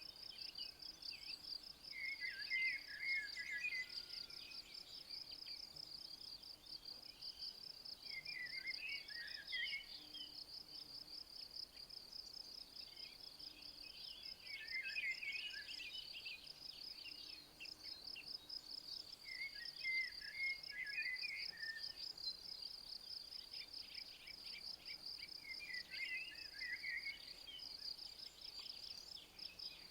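Insects trilling steadily in a fast, even pulse, with a songbird singing five short warbled phrases, one every five or six seconds.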